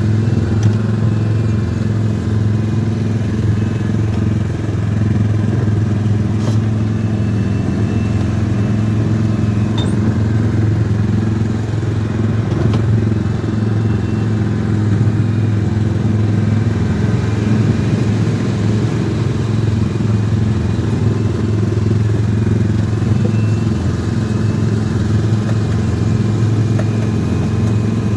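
Car engine running with a steady low hum, heard from inside the cabin along with road and traffic noise.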